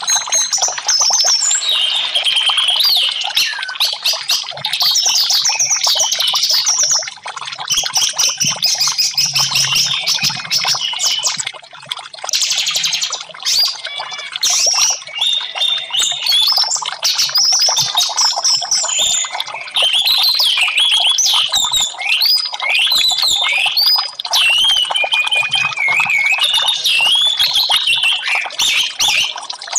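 Orange-headed thrush (anis merah) singing a dense, continuous run of quick, varied whistles and trills, over trickling water.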